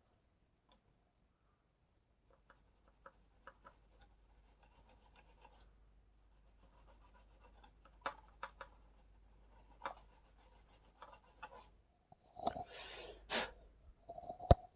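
Faint scratchy rubbing in short strokes, with small clicks, as the DC-to-DC converter IC on an LED TV panel board is scrubbed clean with acetone. Near the end comes a brief, louder hiss and then one sharp click.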